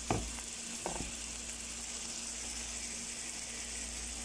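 Sliced bitter melon and spice paste sizzling in a wok, a steady frying hiss. Two short knocks come in the first second, about a second apart.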